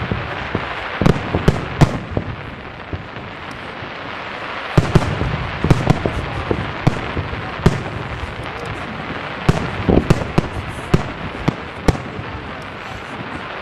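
Aerial firework shells bursting in a professional display: many sharp bangs in quick succession over a steady crackling rumble. The bangs come thickest about a second in, around five seconds in and around ten seconds in.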